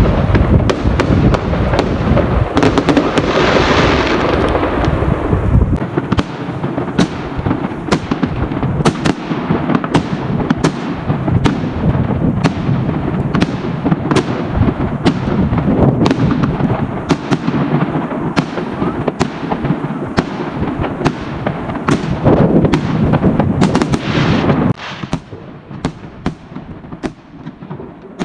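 A barrage of fireworks and firecrackers going off at once: rapid, overlapping bangs and crackling with a heavy low rumble in the first few seconds. The barrage thins and gets quieter near the end.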